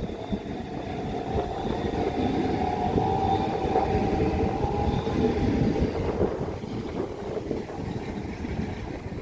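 Southeastern Class 395 Javelin high-speed electric multiple unit moving through the platform: a steady rumble of wheels on rail, with an electric whine that fades about six seconds in.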